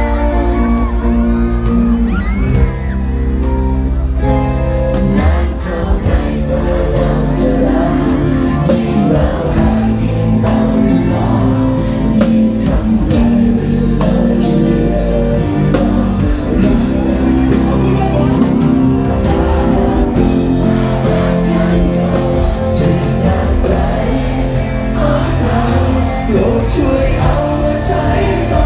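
Live rock band playing, with a singer's voice over the music and some shouts from the audience.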